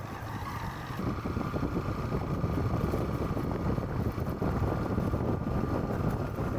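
A vehicle travelling along a road, a steady low rumble with wind buffeting the microphone and a faint steady whine.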